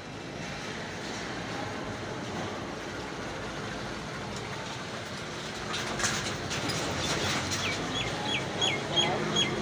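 Steady background rumble with a few clicks about six seconds in, then a bird chirping a quick run of short falling notes, about three a second, near the end.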